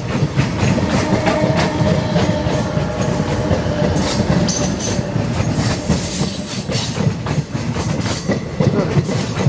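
Indian Railways passenger train of ICF coaches passing close by, the wheels clattering in a quick run of clicks over the rail joints above a steady rumble.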